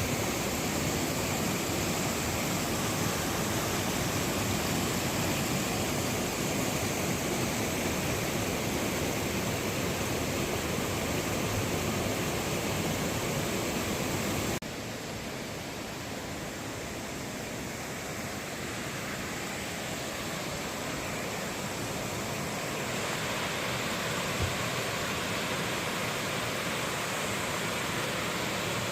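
Mountain stream rushing over rocks in a steady, even roar of water. About halfway through it cuts abruptly to a slightly quieter stretch of the stream, which grows a little louder again near the end.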